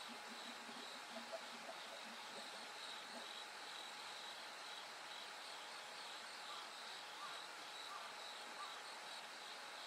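Bell crickets trilling steadily in a high, pulsing chorus. A few faint, lower chirps come in the second half.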